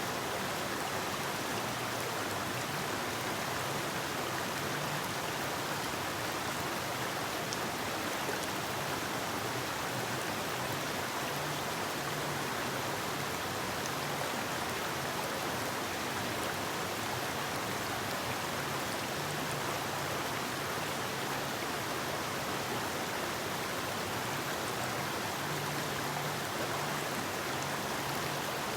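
Forest river water rushing and splashing over rocks in a steady, even wash of sound.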